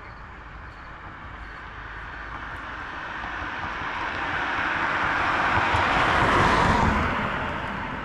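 A motor vehicle approaching and passing on the road, its tyre and engine noise swelling steadily to a peak about six and a half seconds in, then falling away.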